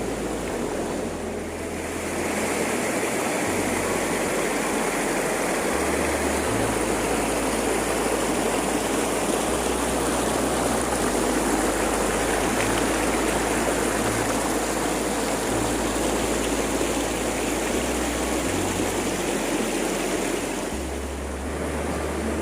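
Steady rush of falling water from a waterfall, a little quieter about a second in and again near the end.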